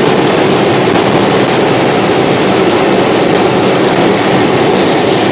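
Steady, loud drone of a car driving at speed: engine, tyre and wind noise held at an even pitch, without revving up or down.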